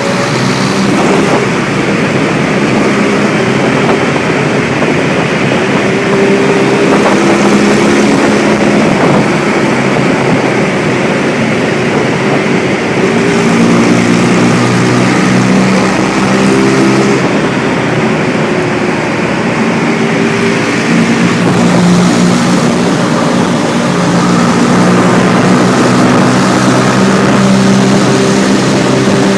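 Motorbike engine running on the move, its pitch rising and falling as it speeds up and slows, over a steady rushing noise.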